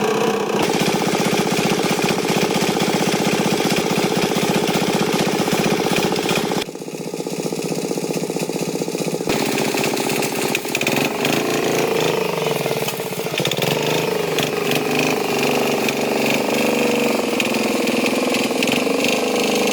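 Tractor engine running steadily. Its sound thins for a couple of seconds about seven seconds in, and its pitch shifts up and down for a few seconds in the middle as the engine speed changes.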